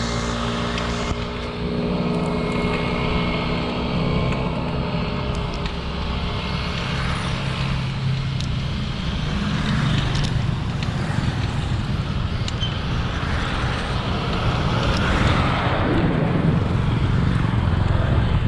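Steady wind and road noise on the microphone of a moving bicycle, with motor traffic on the road.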